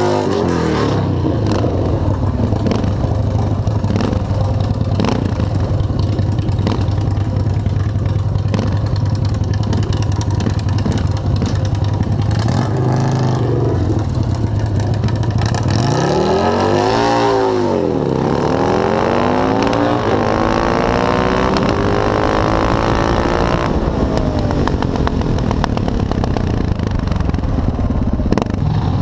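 Motorcycle engines at a drag strip, a steady low drone at first. A little past halfway an engine revs up and drops back, then accelerates with rising pitch for several seconds.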